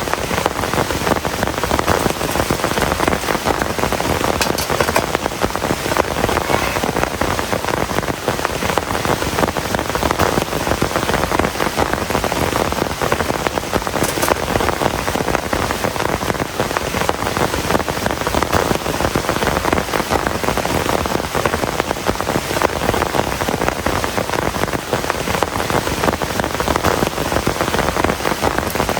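Heavy rain falling steadily: a dense, unbroken patter of drops.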